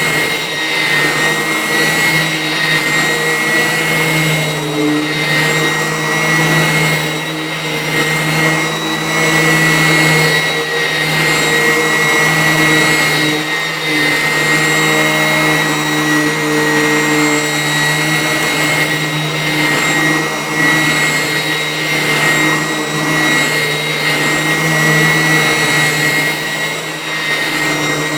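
Vacuum cleaner running steadily, its motor whine high and constant, with slight swells in loudness as it is pushed around.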